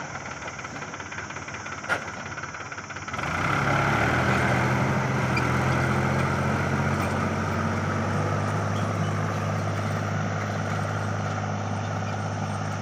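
Tractor engine running steadily; about three seconds in it picks up and grows louder, holding there. A single sharp click about two seconds in.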